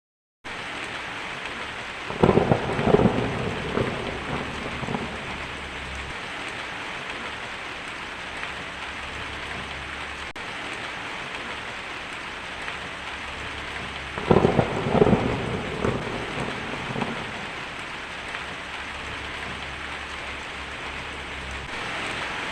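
Steady rain hissing down in a thunderstorm. It cuts in abruptly about half a second in, and thunder rolls over it twice: about two seconds in and again about fourteen seconds in.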